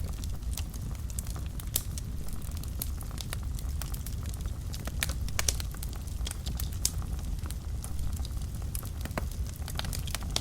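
Wood fire burning in a fireplace: a steady low rumble of flames with frequent irregular sharp crackles and pops, a few louder snaps among them.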